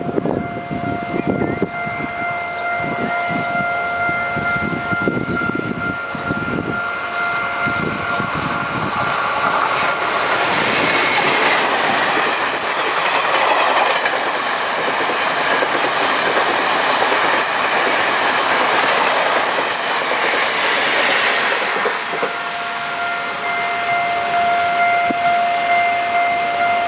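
Taiwan Railways E1000-series Tze-Chiang push-pull express passing close by: wheels rumbling and clacking over the rail joints, then a loud steady rushing hiss as the coaches go by through the middle. A level-crossing warning bell rings as a steady tone at the start, is drowned out mid-way, and is heard again near the end.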